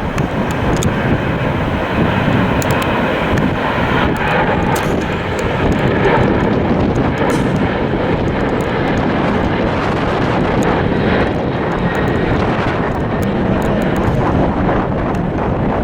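Airliner jet engines running, a steady, loud rush of engine noise.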